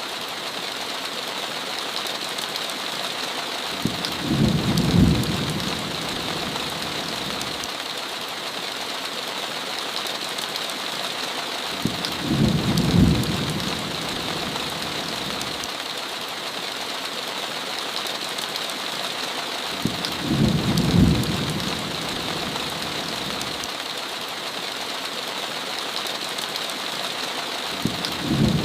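Steady heavy rain on a window, with a short rumble of thunder about every eight seconds. Each rumble opens with a sharp crack, four times in all.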